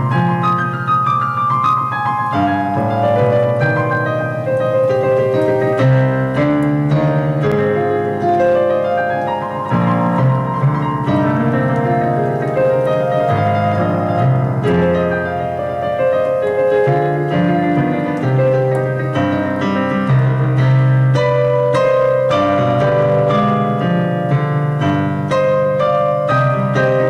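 Background piano music: a steady flow of held notes and chords.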